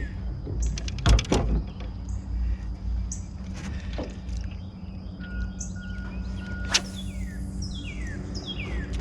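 Birds calling: short high notes here and there, then a run of quick falling chirps near the end. A few sharp knocks sound against a steady low rumble underneath.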